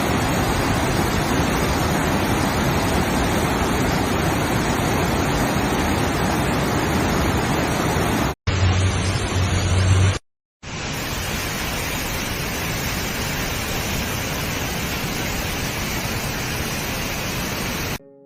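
Steady, loud rush of water, as of heavy rain or floodwater, broken by two abrupt cuts between clips. The short segment between the cuts carries a low hum under the noise.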